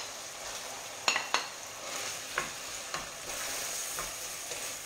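Tomato soffritto sizzling in a pot while crab meat is scraped in from a plate, with a few sharp clicks of the spoon against the plate and pot.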